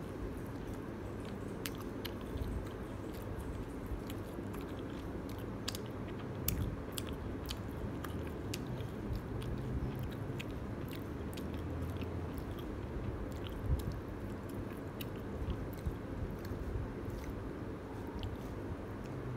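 Close-up chewing of a bite of pan pizza, with many small crisp clicks and crunches.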